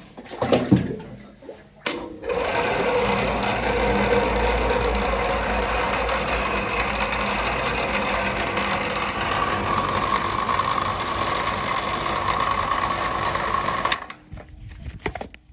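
A small motor, like a power tool, runs steadily for about twelve seconds and cuts off suddenly near the end, after a few sharp knocks at the start.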